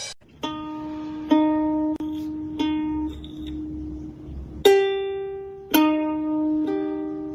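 A plucked string instrument playing a slow melody of single notes, about one a second, each ringing out and fading.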